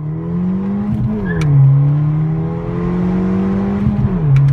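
Ford Fiesta ST's 1.6-litre turbocharged four-cylinder accelerating through the gears with its exhaust dumped open at the downpipe, the cat-back removed. The engine note rises and drops sharply twice, at upshifts about a second in and near the end.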